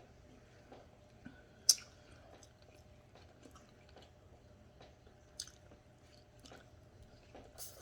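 A person chewing food close to the microphone, with soft wet mouth noises and a few sharp clicks, the loudest about two seconds in.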